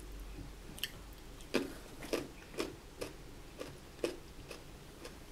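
Close-up crunchy chewing of raw vegetables, a steady series of crunches about two a second, starting about a second and a half in.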